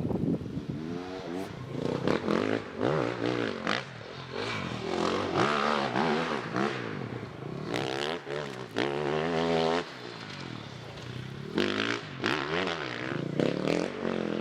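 Off-road motorcycle engines revving, the pitch rising and falling again and again as the throttle is worked, with more than one bike running at once.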